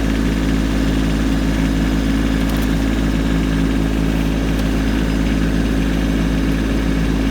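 Kubota B2650 tractor's three-cylinder diesel engine running at a steady speed, an even hum that does not change.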